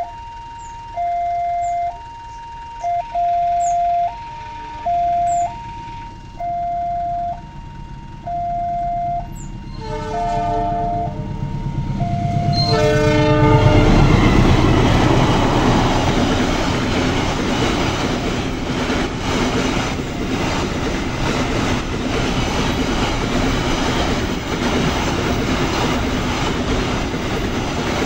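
Level-crossing warning alarm alternating between two tones about once a second, then a train horn sounds a little before halfway and a train passes over the crossing, loud and rumbling with wheels clattering on the rail joints.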